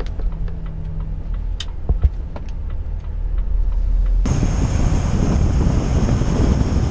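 Truck cab interior: the engine rumbles steadily with a low hum and a few light ticks and knocks, and about four seconds in a loud, even rushing hiss with a high whistle in it starts suddenly and carries on.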